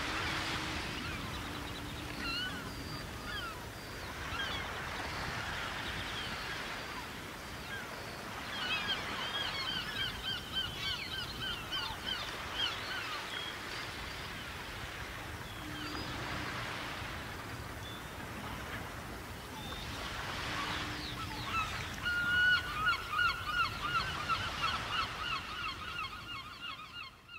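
Birds calling in runs of quick repeated notes, about three a second and loudest near the end, over a soft rushing background that swells and fades every few seconds.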